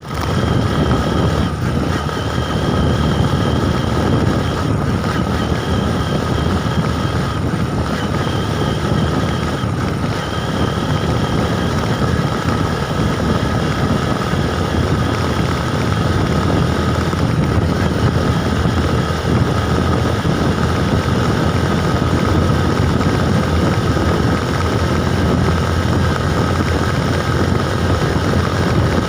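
Steady rumble of a bike ride with wind buffeting the microphone, and a faint steady whine over it.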